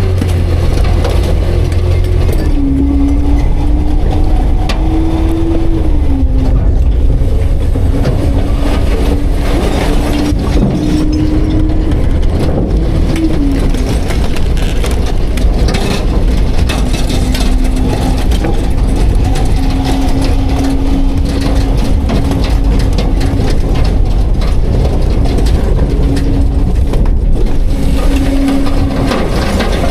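Autocar-Heil Freedom front-load garbage truck running as it packs garbage: a steady engine-and-hydraulic hum that steps up and down in pitch several times, with mechanical clatter from the packer.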